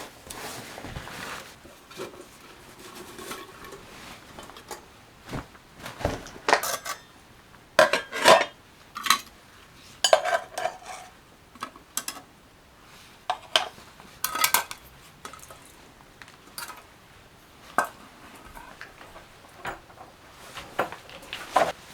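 Hard objects clinking and clattering irregularly as they are handled, about a dozen sharp strokes, a few with a brief ring.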